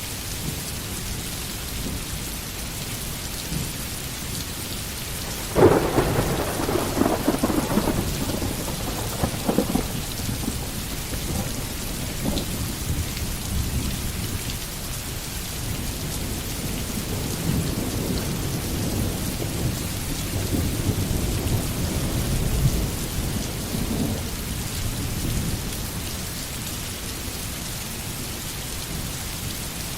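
Steady rain, with a sudden thunderclap about six seconds in that crackles for a few seconds and then trails off into low rolling rumbles, which swell again in the middle of the stretch.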